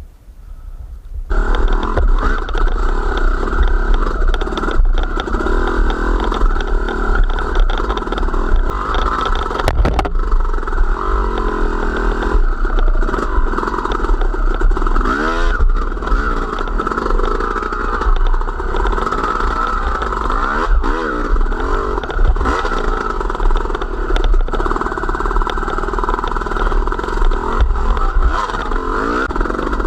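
Engine of a small motor vehicle running under way, its pitch rising and falling with the throttle, with heavy wind rumble on the microphone. It starts abruptly about a second in.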